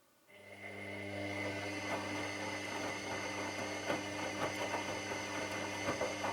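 Washing machine drum motor starting up after a pause and running steadily: a low hum with a high whine over it, and irregular light knocks as the drum turns.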